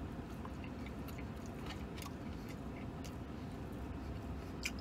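A man biting into and chewing a mouthful of a meat-stacked sandwich, close to the microphone, with scattered wet mouth clicks and smacks over a steady low rumble.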